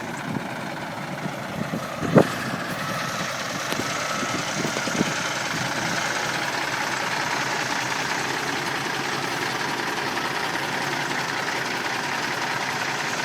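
Ford tandem dump truck engine idling steadily, with a sharp knock about two seconds in and a couple of lighter thumps a few seconds later.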